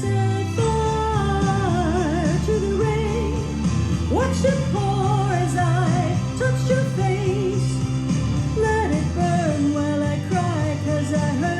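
A female voice sings a pop ballad over a full backing band with drums and bass. The sung lines slide between notes with a wavering vibrato.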